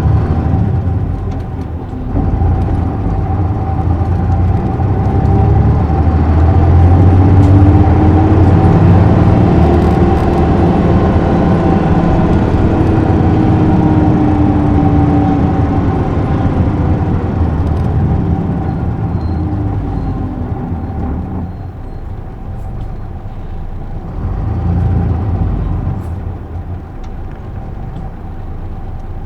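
Isuzu Erga city bus's inline-six turbo diesel heard from inside the cabin, pulling away: the engine note climbs and grows louder for several seconds, then eases and falls away as the bus coasts. It runs quieter in the last several seconds.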